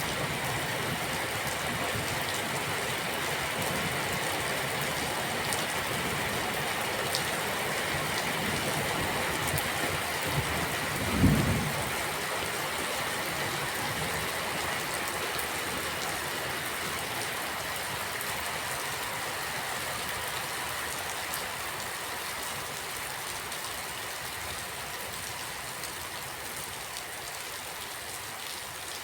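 Steady rain falling, an even hiss of drops. A single brief low thump about a third of the way in, and the rain eases slightly toward the end.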